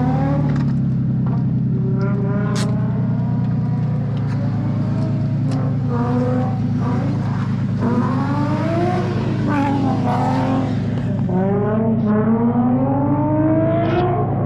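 Car engine revving up and down again and again, its pitch rising and falling, over a steady low engine drone.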